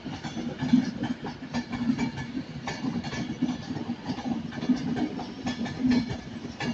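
A train moving through the station. Its wheels give frequent short clicks over the rail joints and pointwork, over a steady low hum.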